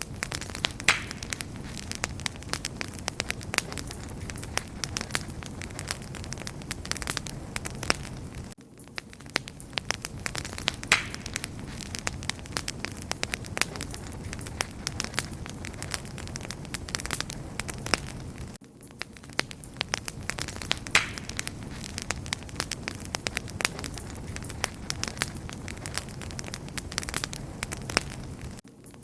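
Wood fire crackling and popping steadily: a dense run of sharp snaps over a low rumble of burning. The level dips briefly about every ten seconds.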